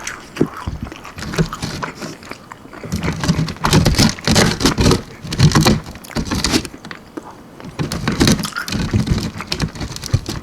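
Close-miked chewing of almond-flour-breaded chicken wings: irregular crisp crunches with heavier chewing, loudest from about three to six seconds in and again around eight seconds.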